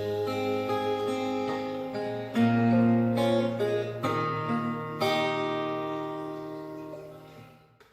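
Acoustic guitar strumming the closing chords of a ballad's outro. Each chord rings on, and the last one fades away near the end.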